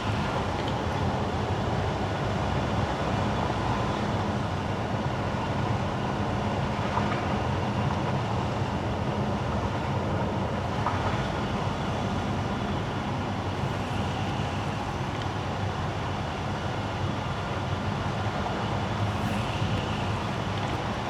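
Car driving on wet winter asphalt: steady tyre and road noise with a low rumble.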